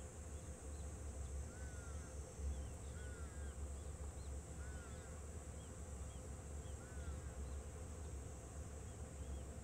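Faint outdoor background: a low steady rumble and a steady high insect drone, with a bird repeating a short chirp every second or two.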